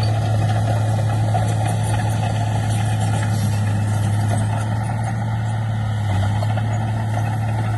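Heavy diesel engine of earthmoving machinery running steadily at constant speed with a strong low hum.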